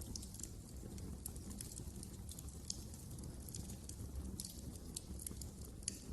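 Fire crackling in a fireplace: a steady low rumble of flames with scattered small snaps and pops, and two sharper pops, one near the middle and one near the end.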